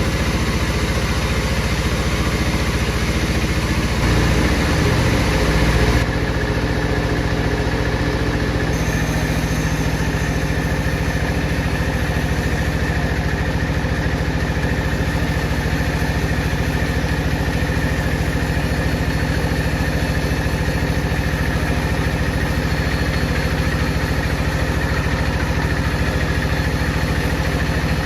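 Power saw machinery running steadily with a continuous mechanical hum. The hum grows louder and changes in tone about four to six seconds in, then shifts again abruptly.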